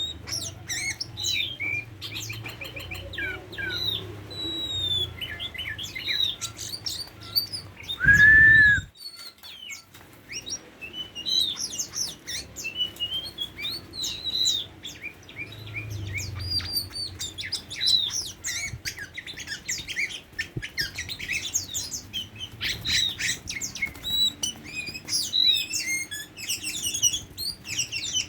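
Oriental magpie-robin (kacer) singing: a continuous run of varied short chirps and whistles, with one much louder burst about eight seconds in.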